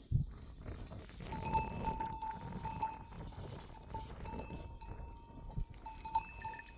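A livestock bell on a sheep clanking and ringing again and again as the animal moves, starting about a second in. A short dull thump comes right at the start.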